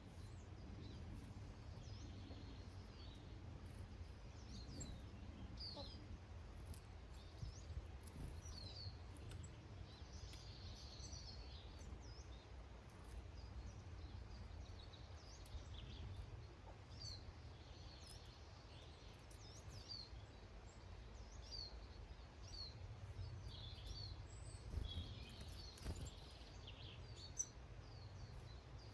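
Faint, scattered chirps and short calls of small garden birds, over a steady low outdoor rumble.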